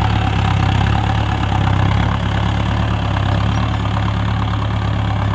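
Mahindra Novo 605 tractor's diesel engine running steadily with a deep, even hum.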